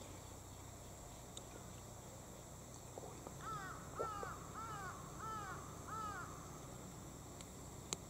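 A bird calling five times in quick succession, about three seconds in, each call a short note that rises and falls. A few soft knocks come around the same time, and there is a sharp click near the end.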